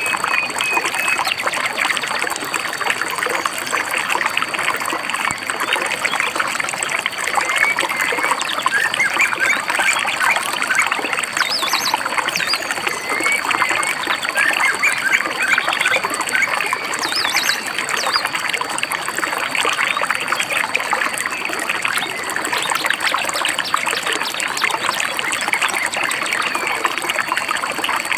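Shallow river babbling and trickling over stones, steady and unbroken, with birds giving short chirps every few seconds.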